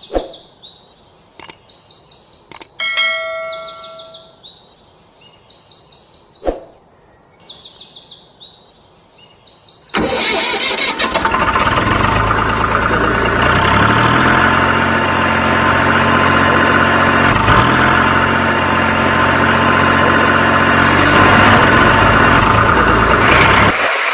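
High, repeated chirping with a few sharp clicks and a brief tone. About ten seconds in, a vehicle engine starts suddenly and runs steadily and loudly.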